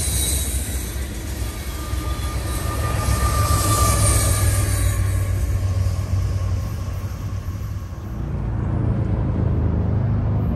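Freight train of covered hopper cars rolling past, the wheels rumbling on the rails with a thin high wheel squeal a couple of seconds in, the noise fading as the end of the train goes by. After about eight seconds a steady low road-traffic hum takes over.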